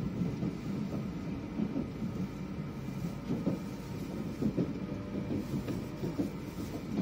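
Shinkansen bullet train running, heard from inside the passenger car: a steady low rumble of wheels on rail with small irregular knocks and a faint steady whine.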